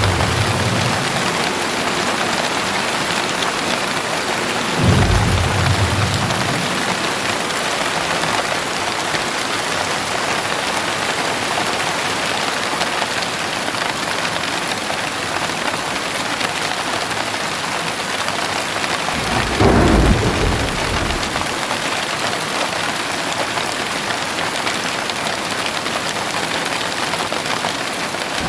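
Heavy rain falling steadily, with a short roll of thunder about five seconds in and a louder one around twenty seconds in.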